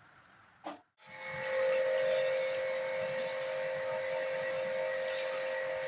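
A machine starting with a click, then running steadily from about a second in: a held whine over a hiss.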